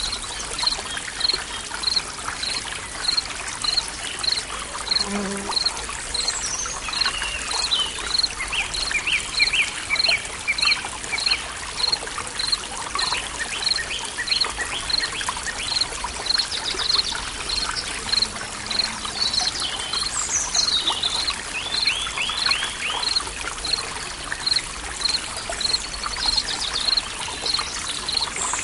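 Water trickling and running steadily in a forest, with birds singing: a short high chirp repeated about twice a second throughout, and bursts of fluttering trilled calls now and then.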